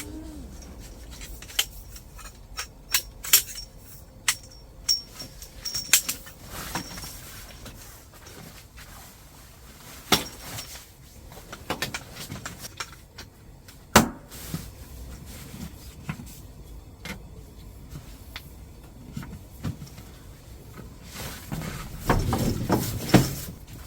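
Scattered clinks and knocks of tableware and utensils at a meal, with sharp ones about ten and fourteen seconds in and a busier stretch near the end.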